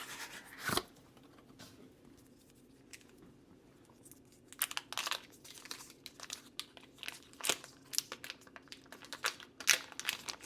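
Butter package being opened: a single knock just under a second in, then irregular crinkling and tearing of the wrapper starting about four seconds in.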